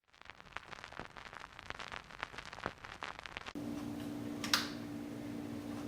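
Irregular faint crackling and clicking. About three and a half seconds in, a vintage Dayton 3-speed box fan's electric motor hum and the even hiss of its moving air cut in abruptly, with a single sharp click about a second later.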